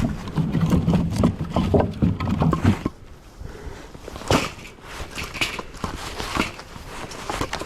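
Split firewood being handled and stacked: pieces knocking and clattering against each other, busy for the first few seconds, then scattered single knocks, the sharpest about four seconds in.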